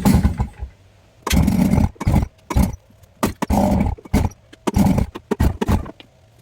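Small two-stroke outboard motor dies away about half a second in, then fires in short, ragged bursts, catching and stalling again and again: a cold engine that has not yet warmed up.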